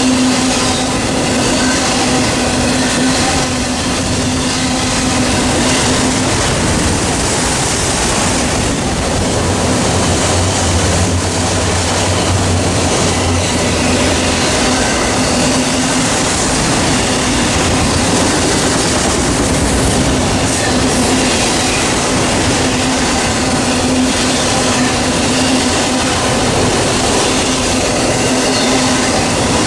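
Norfolk Southern freight train passing close by: a long, steady, loud run of railcars rolling over the rails.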